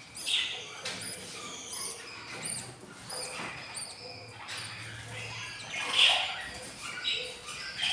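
Budgies chirping and chattering: a run of short, high chirps, with louder squawks just after the start and about six seconds in.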